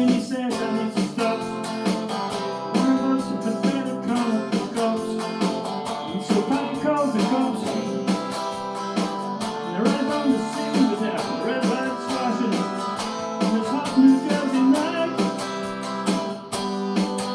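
Acoustic guitar strummed steadily, chords ringing on through the strokes.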